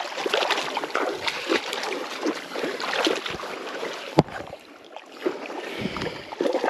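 Water splashing and sloshing in many quick, irregular splashes as a just-landed catfish is handled at the water's edge, with one sharp knock about four seconds in.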